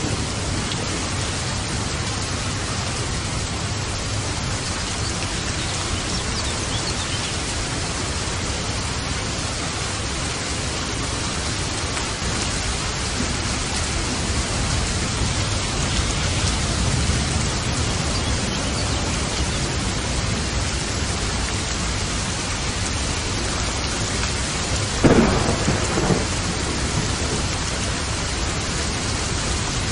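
Steady heavy rain with low rumbling thunder, and a sharp, louder thunderclap near the end.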